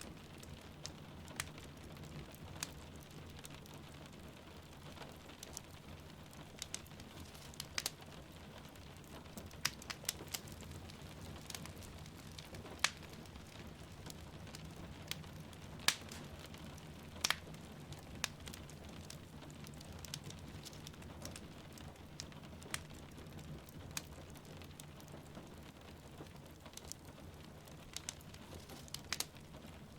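Wood fire crackling, with irregular sharp pops, over a steady hiss of falling rain. The loudest pops come about halfway through.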